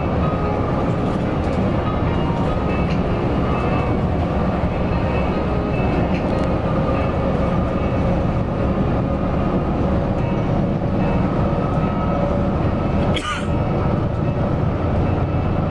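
Heavy coach bus running, its steady engine drone and road rumble heard from on board. One brief sharp sound cuts in near the end.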